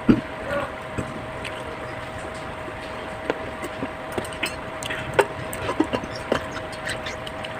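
Eating sounds: scattered short clicks and taps of utensils and chewing over a steady background hum.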